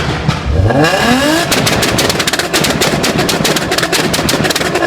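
A car engine revs up hard about half a second in, then its exhaust fires a rapid, irregular string of loud pops and bangs for about three seconds.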